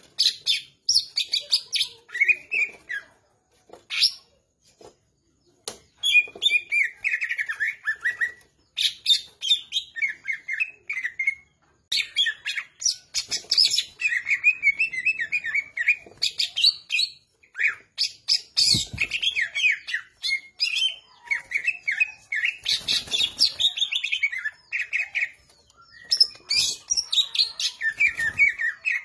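Cucak ijo (green leafbird) singing vigorously: a rapid, varied run of chirps, trills and sweeping whistles in bursts with short pauses. A couple of brief low thumps come in partway through.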